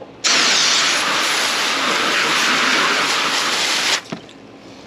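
Water hose spraying onto a fish-cleaning table: a loud, even hiss of spray that starts suddenly just after the start and cuts off about four seconds in.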